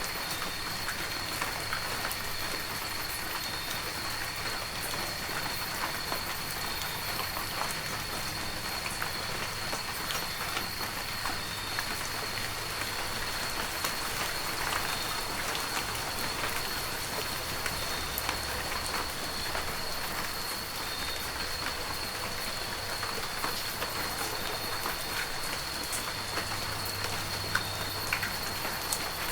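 Heavy rain falling steadily, with scattered sharp hits of single drops, over a faint steady high-pitched tone.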